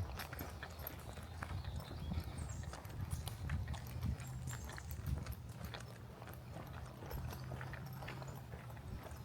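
Footsteps on a walking trail at an unhurried pace, with scattered small ticks over a steady low rumble.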